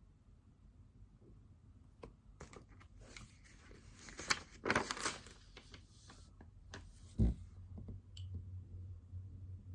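Desk handling sounds: scattered light clicks and a scratchy rustle of paper and stationery, loudest about four to five seconds in. A single dull thump comes about seven seconds in, after which a faint low hum continues.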